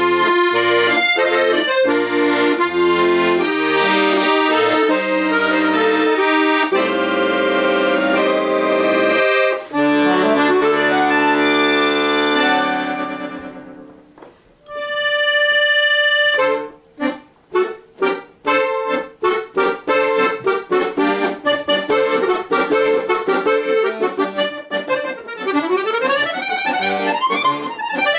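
Accordion playing an instrumental folk tune: full chords over a bass line, fading about halfway through, then a held chord and a run of quick, short detached notes, with some sliding notes near the end.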